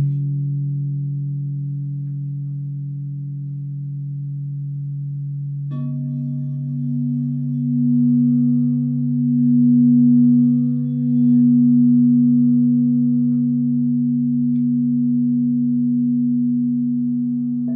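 Crystal singing bowls ringing in long, steady, overlapping low tones. About six seconds in, another bowl is struck and joins with a lower note that swells and wavers.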